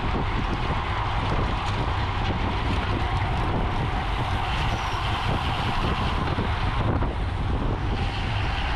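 Steady wind rushing over the microphone with a low road rumble, as on a racing bicycle moving at speed.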